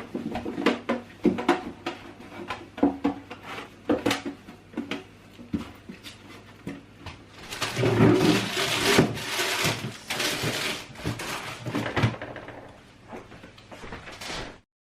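Plastic fridge drawer being handled and wiped down: a run of light knocks and clatter, with a louder stretch of rubbing a little past halfway. The sound cuts off suddenly near the end.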